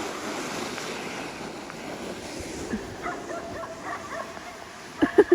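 A dog barks sharply a few times near the end, over a steady background hiss.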